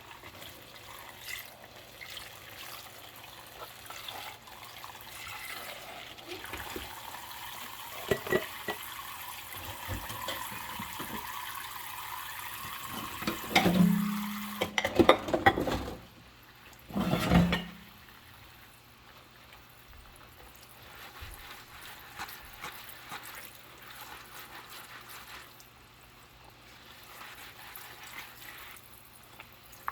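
Tap water running into a sink while dishes are washed, then loud rubbery squeaks from wet rubber gloves on dishes around the middle. After the water stops, quieter clinks and rubbing of dish handling follow.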